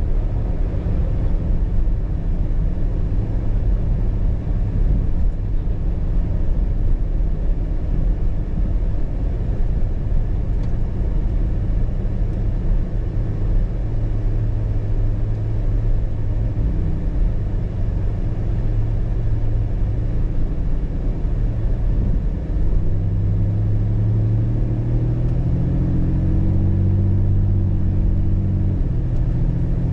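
A car being driven, with a steady low rumble of engine and road noise. Near the end the engine note grows louder and climbs a little, as under acceleration, then drops away.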